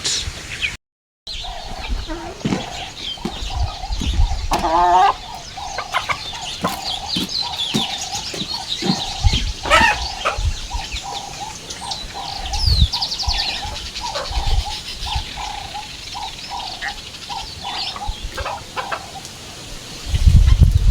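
Young chickens, about a month and a half old, clucking and peeping in a long run of short repeated calls, with higher chirps over them and a few low thumps.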